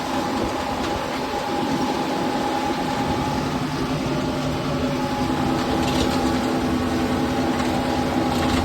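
Kubota tractor's diesel engine running at a steady speed while the tractor drives along, with a constant engine hum.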